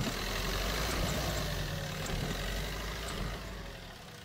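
Maruti Suzuki Ertiga engine running at low speed, its rumble falling away about three and a half seconds in.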